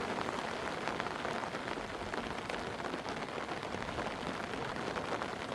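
Steady rain falling, with many small drop impacts pattering throughout.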